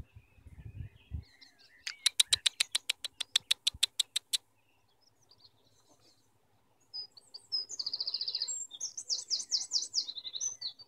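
Garden birds calling: a fast run of sharp, evenly repeated chipping notes, about eight a second for a couple of seconds. After a pause come high trills and chirps.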